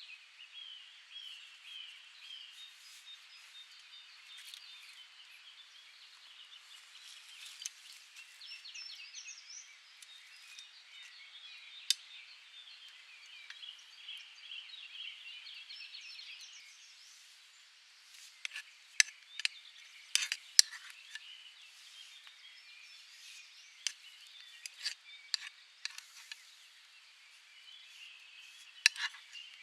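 Birds chirping in a steady stream of short calls, then, from about halfway, a series of sharp clicks or taps, some in quick clusters.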